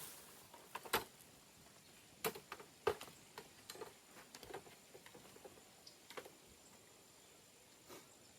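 Faint, scattered clicks and snaps from cut tree branches and twigs being handled, irregularly spaced with no rhythm.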